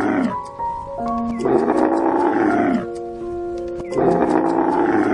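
A big cat's roar, repeated in the same shape about every two and a half seconds, each roar dropping in pitch as it ends. Between the roars, simple music of held notes steps up and down.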